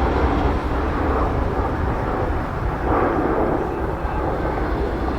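BNSF diesel locomotives running at a distance while switching auto rack cars: a steady low rumble that swells briefly about three seconds in.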